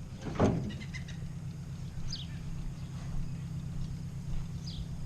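Ford 600 tractor's gasoline engine idling steadily while it warms up. Over it come one brief call about half a second in and a few short, high, downward-sliding peeps from young chickens.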